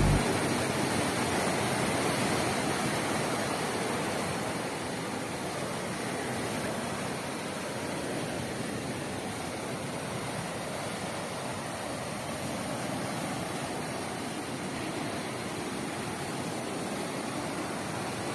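Fast-flowing river water rushing steadily, an even, unbroken roar that eases off a little over the first few seconds and then holds level.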